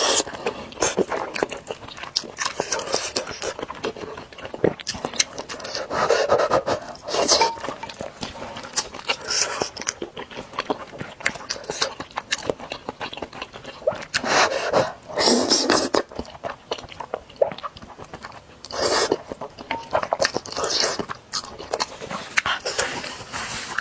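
Close-miked eating of spicy noodles: slurping and chewing, with several louder noisy slurps a few seconds apart and many small wet clicks in between.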